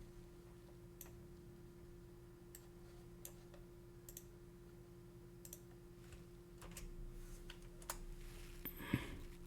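Faint, scattered clicks of a computer keyboard and mouse over a steady low electrical hum, with a brief louder rustle and knock near the end.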